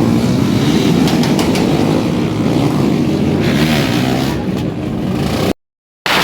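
Motorcycle engine running loud and revving, cutting off abruptly to silence about five and a half seconds in.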